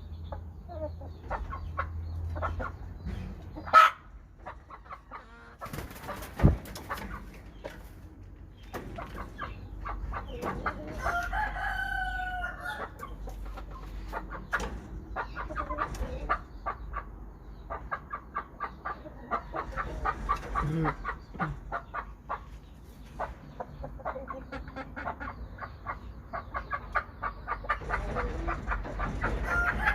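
Thai-Vietnamese hybrid gamecock crowing, one long falling crow about eleven seconds in and another at the end, with chicken clucking between the crows. Two sharp knocks stand out, near four seconds and again a few seconds later.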